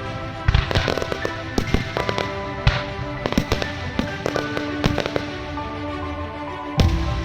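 Aerial fireworks going off in quick, irregular bangs and crackles, with a louder bang near the end, over music with long held notes.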